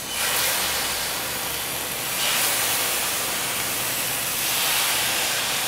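Yogurt-marinated chicken tikka skewers sizzling on a hot tawa, the sizzle starting suddenly as they are laid down and swelling again a couple of times.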